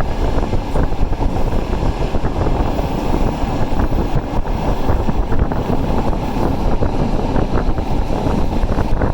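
Passenger train running at speed, a steady loud rumble with wind buffeting the microphone.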